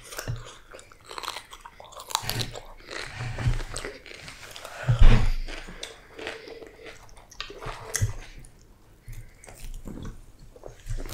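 Close-miked eating: irregular chewing and crunching of food, with a loud low thump about five seconds in.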